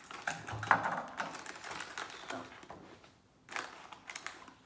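Crinkly plastic snack packaging being handled and torn open, a string of irregular crackles and clicks.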